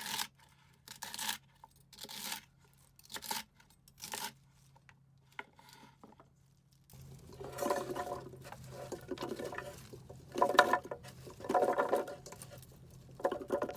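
Celery stalks crunching, about one crisp crunch a second. About seven seconds in, an electric juicer starts up and grinds the celery with a steady hum, growing louder in surges as stalks are fed in.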